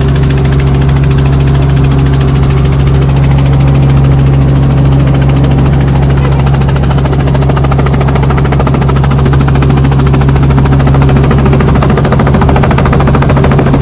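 Helicopter in flight: engine and rotor running loud and steady, with an even fast pulsing and a constant low hum.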